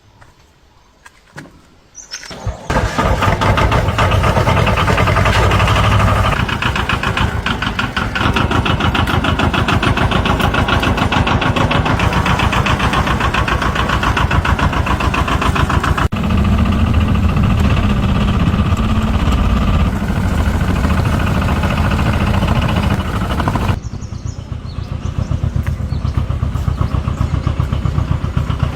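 A vehicle engine starts up about two seconds in and runs loudly with a fast, even beat. Its note changes several times as it keeps running, dropping in level near the end.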